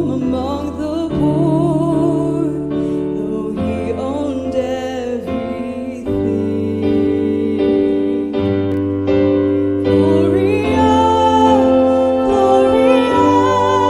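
A woman singing a Christmas hymn with vibrato, accompanied by piano and sustained melodic instrument lines; the accompaniment swells fuller about ten seconds in.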